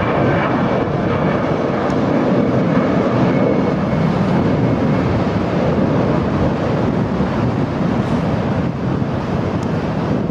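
Jet airliner engines running at high power, a loud steady rush of engine noise with a faint high whine over the first few seconds.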